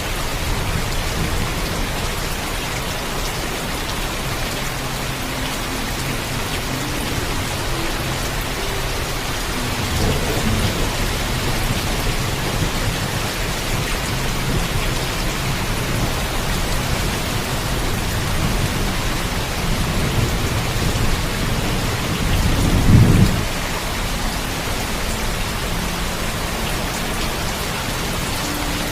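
Heavy rain falling steadily, with low rolls of thunder: one rumble about a third of the way in and a longer, louder one building to a peak about three-quarters of the way through.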